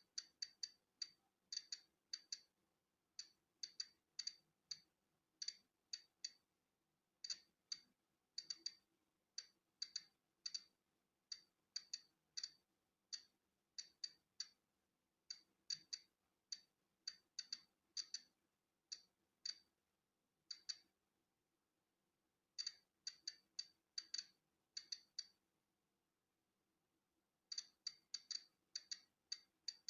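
Polon EKO-C digital Geiger counter clicking at random, uneven intervals as it counts natural background radiation, each click marking one detected particle. The clicks are short and sharp, sometimes bunched together, with pauses of a second or two between some of them.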